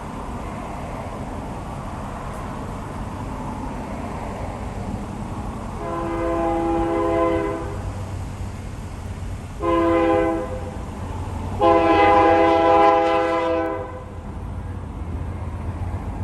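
Diesel locomotive's multi-chime air horn sounding a long blast, a short blast and then a long blast, in the pattern of a grade-crossing warning. A steady low rumble from the approaching train runs beneath the horn.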